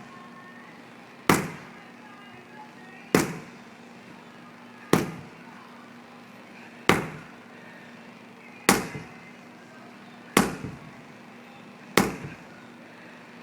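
Sledgehammer striking a big tire over and over in rotational swings: seven sharp bangs, one about every two seconds.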